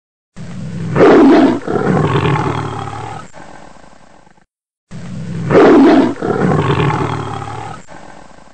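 Tiger roaring: two identical roars, each loud at the start and fading away over about four seconds.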